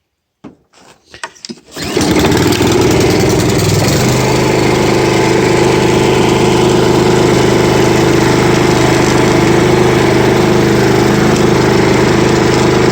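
Honda walk-behind lawn mower engine pull-started on choke: about a second of cranking and sputtering, then it catches and runs steadily. Its note settles a couple of seconds after it catches.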